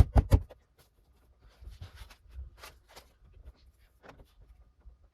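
Plastic handle trim on a car's interior door panel being pressed into place: three sharp clicks or knocks in quick succession at the start, then faint small plastic handling noises.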